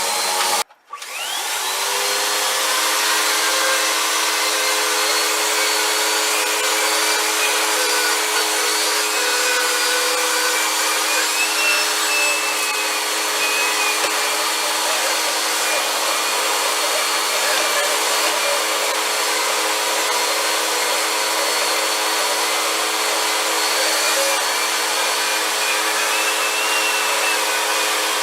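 Vacuum cleaner motor running steadily with a high whine. About a second in it cuts out briefly, then spins back up, its pitch rising before it settles.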